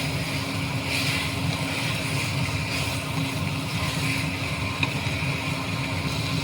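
Steady mechanical hum with a hiss over it and a few faint clicks.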